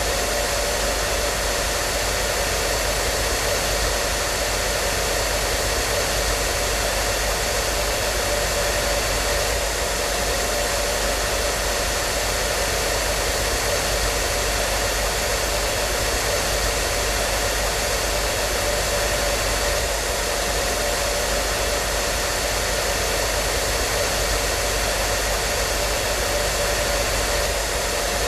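Hair dryer running steadily: an even rushing blower noise with a constant motor hum underneath, unchanging throughout.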